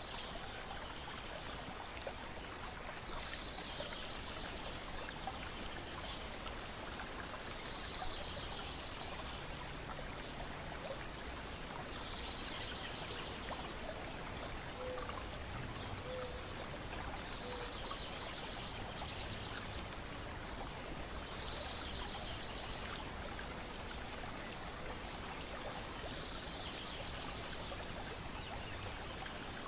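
Lake water lapping and trickling steadily against a shore and deck, with a bird's high chirping phrase recurring about every four seconds.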